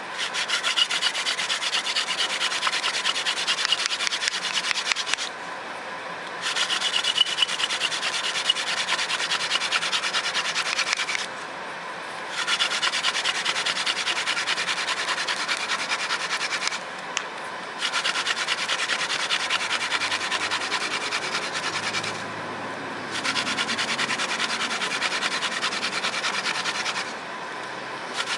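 Hand drill friction fire: a dry bird of paradise stalk spindle spun between the palms, grinding into a redwood hearth board with a steady, raspy rubbing. It goes in five bouts of about four to five seconds, each broken off by a pause of about a second as the hands go back up the spindle.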